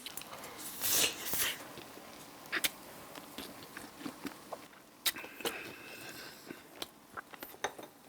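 Person eating wood-fired rotisserie chicken, biting and chewing, with two louder bites about a second in and then scattered small mouth clicks and smacks.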